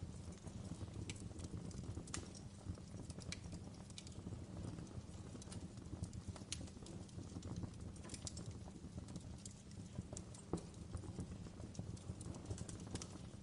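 Fireplace crackling: irregular sharp pops and snaps, scattered unevenly, over a steady low background.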